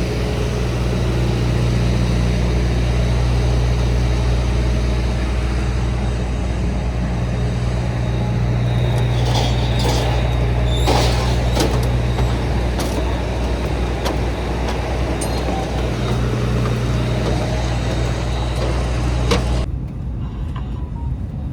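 Steady low engine drone with a constant hiss, and a few short clicks and knocks about halfway through; it cuts off abruptly to a quieter background near the end.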